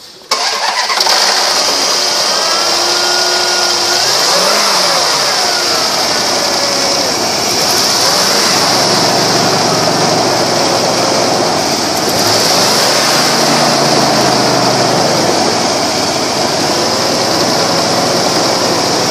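2004 Dodge Durango engine starting a moment in, then running steadily, its pitch rising and falling briefly about four seconds in, with a steady high-pitched hiss over it.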